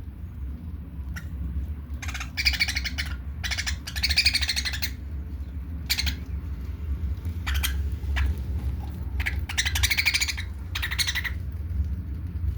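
Budgerigars calling: a run of harsh, buzzy squawks and chatter in short bursts, over a steady low rumble.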